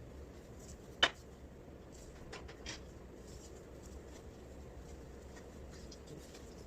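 Light handling noises in a small room: one sharp click about a second in, then a few faint ticks and soft rubbing.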